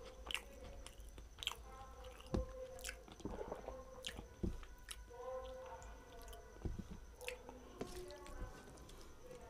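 Close-miked chewing of rice, dal and curry, with irregular wet mouth clicks, while fingers squish and mix rice and curry on a steel plate.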